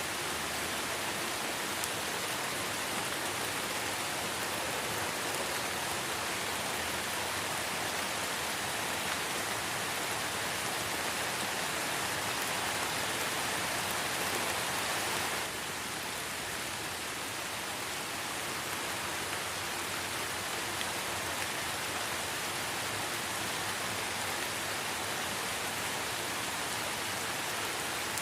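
Light rain falling steadily in a forest, an even patter of drops on leaves and ground, dropping slightly in level about halfway through.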